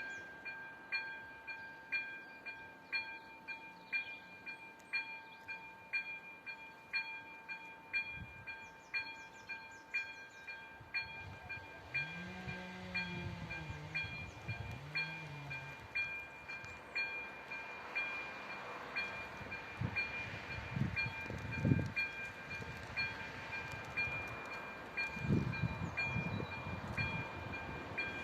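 Level-crossing warning bell ringing about twice a second over a steady warning tone. After about seventeen seconds a rising rumble of an approaching train takes over.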